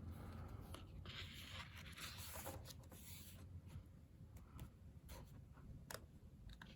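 Faint rustling and sliding of the photobook's thick, matte photo-paper pages being handled and turned. A few light ticks follow later on.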